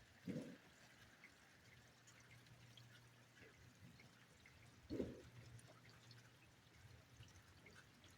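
Near silence: faint rain noise with a low hum, broken by two short, muffled booms about five seconds apart, the first right at the start.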